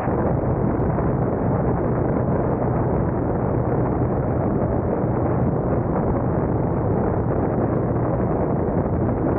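Steady road and engine noise of a car being driven, picked up by a dashcam, sounding dull and muffled with a faint low hum underneath.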